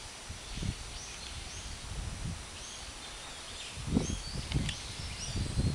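Strong wind gusting against the microphone in uneven low rumbles, growing stronger about four seconds in, with small birds chirping in short high calls throughout.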